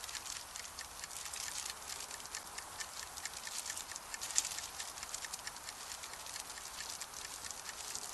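Wood campfire crackling, with dense irregular pops and one louder pop about four seconds in.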